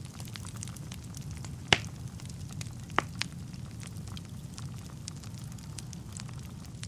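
Wood fire burning in a fireplace: a steady low rumble of flames under a constant scatter of small crackles. Two sharp pops of the burning logs stand out, about one and three seconds in.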